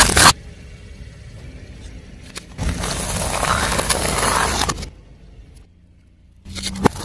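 A car tyre rolling over and crushing objects. A loud stretch of dense crunching noise cuts off just after the start, and a second stretch lasts about two seconds in the middle.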